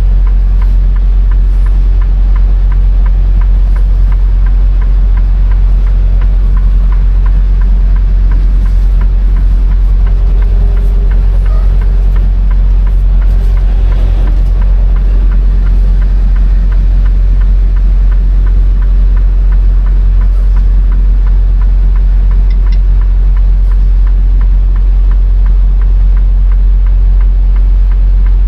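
Semi-truck diesel engine running steadily with a deep, even rumble.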